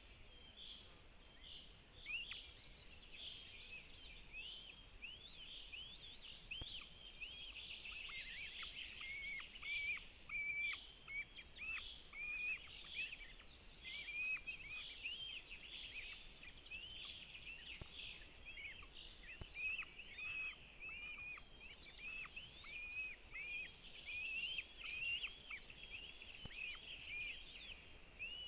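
Northern goshawk chicks giving rapid, high-pitched begging calls at the nest during a feeding, one short call after another.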